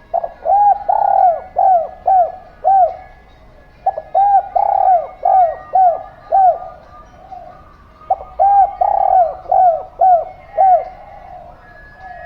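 A dove cooing in three rhythmic bouts, each a quick run of five to seven short arched coo notes.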